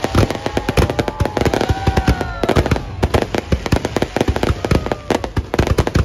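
Aerial fireworks display going off in a rapid, continuous barrage of bangs and crackles, several blasts a second with no pause.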